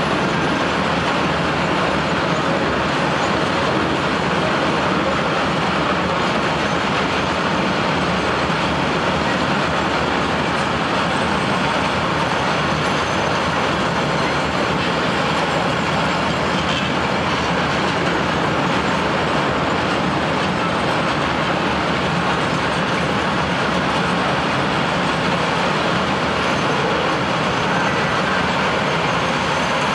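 A long freight train of covered sliding-wall wagons rolling past, its wheels and rails making a loud, steady rumble with no break.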